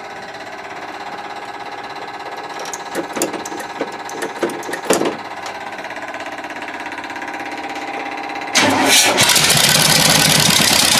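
Demolition-derby Buick Electra V8 running through open straight-pipe headers, just brought back to life and sounding healthier. It runs steadily with a few sharp pops in the middle, then about eight and a half seconds in it suddenly gets much louder.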